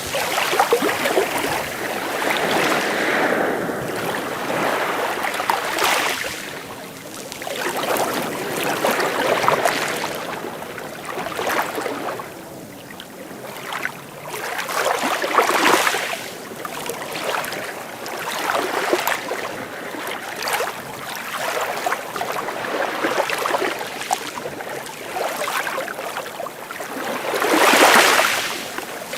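Sea waves washing in on the shore, surging and falling back every few seconds, with the biggest surge near the end.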